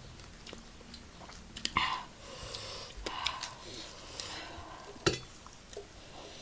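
Close-up eating sounds of food being chewed, with a few short clicks and one sharp knock about five seconds in.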